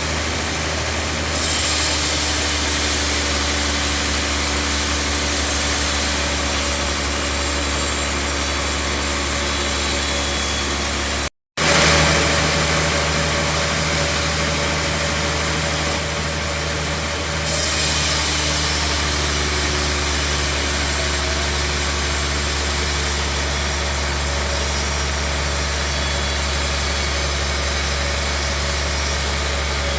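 Bandsaw sawmill machinery running steadily: a low motor hum under a constant loud hiss. The hiss gets stronger about a second and a half in and again past the middle, and the sound cuts out for a moment about eleven seconds in.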